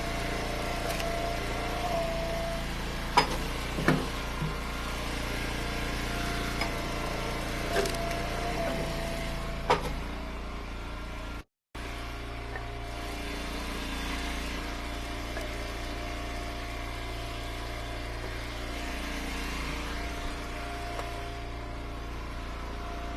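Engine of an Eastonmade Ultra wood splitter running steadily, with several sharp knocks of firewood being split and handled during the first ten seconds or so. The sound drops out for a moment about halfway.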